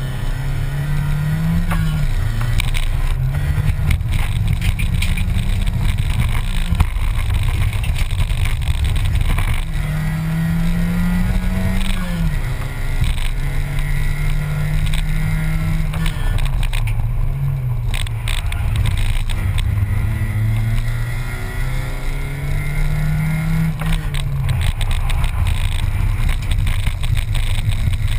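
In-cabin sound of a Škoda Felicia rally car's engine under hard driving, revving up and dropping back several times, over steady road and wind noise.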